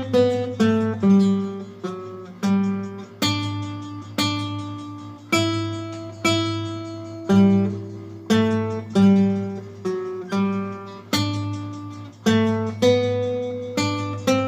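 Acoustic guitar strummed in a slow, even pattern: a strong stroke about once a second with lighter strokes between, the chord changing every second or two.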